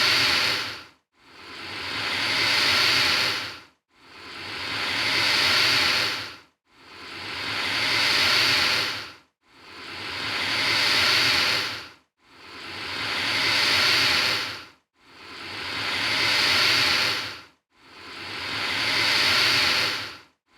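Alligator hissing: a forceful breathy hiss that swells up and then cuts off sharply. The same hiss repeats evenly about every three seconds.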